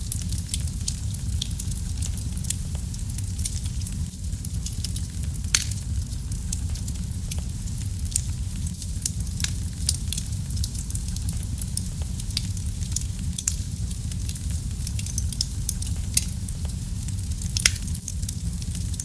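Wood fire burning in a fireplace: a steady low rumble of flame under constant crackling, with a few louder pops and snaps scattered through.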